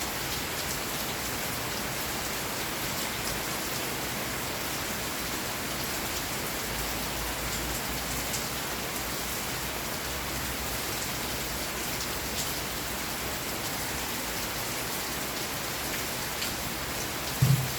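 Steady rain falling, with scattered louder drops and one short, low thump near the end.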